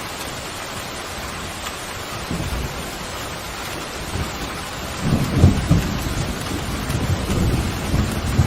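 Steady rain falling, with thunder: a low rumble of thunder swells up about halfway through and keeps rolling with crackling peaks.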